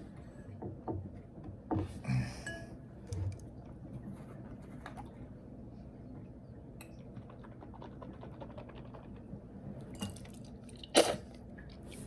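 Wet mouth sounds of a person tasting shampoo held in the mouth: scattered smacks and clicks of tongue and lips, with a louder sharp noise near the end.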